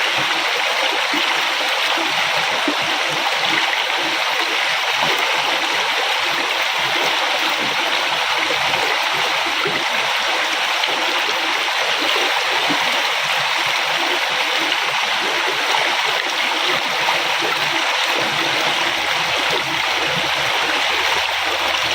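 River water flowing: a steady rush with a slight gurgling flicker.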